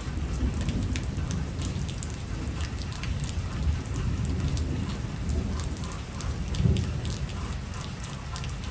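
Heavy rain falling steadily, with many sharp drops pattering on a close surface over a low rumble that swells briefly near the end.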